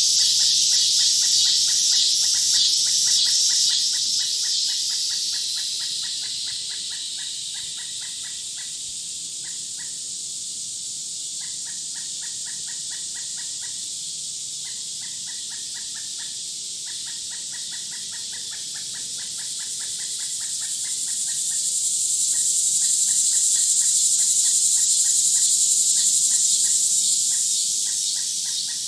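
Woodland nature ambience: a high, loud insect buzz that fades out in the first several seconds and swells back late on, over a steady run of rapid, evenly repeated chirps.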